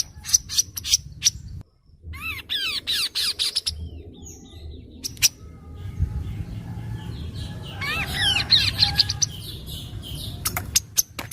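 Kaso-kaso bird calling: sharp clicking ticks, and twice a quick run of falling, chirping notes, about two seconds in and again about eight seconds in, over a low hum.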